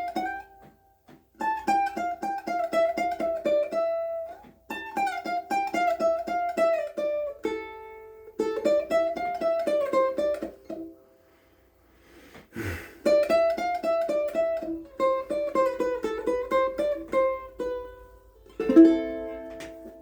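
A KoAloha ukulele played fingerstyle: a melody of quick single plucked notes in phrases, with short breaks between them. About two-thirds through there is a single knock, and near the end a loud strummed chord rings out.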